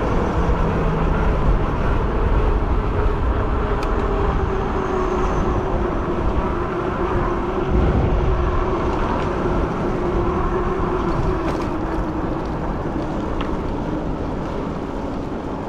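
Fat-tire e-bike riding along: a steady rush of tire and wind noise, with a faint hum that slowly drops in pitch.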